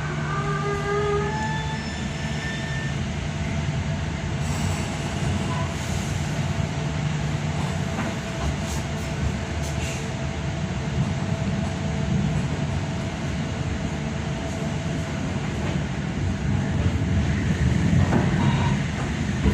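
Passenger train running on the rails with a steady low rumble. In the first few seconds there are a few short high wheel squeals.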